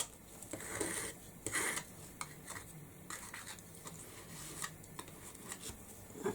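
Spatula scraping excess structure paste off a stencil: a few soft scrapes, the clearest about half a second and a second and a half in, then faint rubbing.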